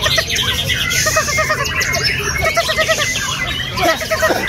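Several white-rumped shamas singing at once, a dense overlapping chorus of whistled phrases, trills and rapidly repeated notes, over a steady low background noise.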